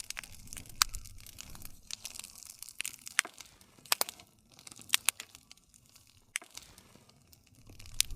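Campfire wood crackling, with irregular sharp pops and snaps over a low rumble of flame that fades after the first couple of seconds and swells again near the end.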